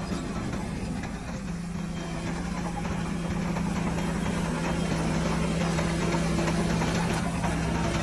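Heavy diesel engine of an earthmoving machine running steadily at low revs, with a constant deep hum.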